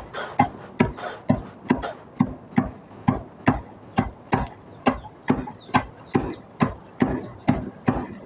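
Rice being pounded with pestles in a mortar: a steady rhythm of hard knocks, about two strong strokes a second, with weaker strokes falling between them.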